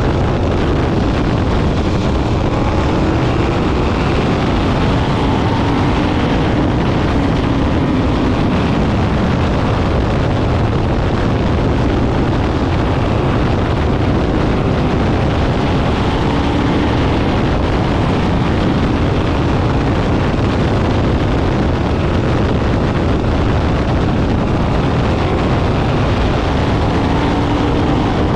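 Sprint cars racing, their engines running loud and continuous, with engine pitch rising and falling every few seconds as cars pass and accelerate.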